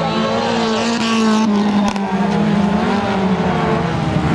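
Autocross race car engine running hard, its pitch wavering slightly up and down with the throttle.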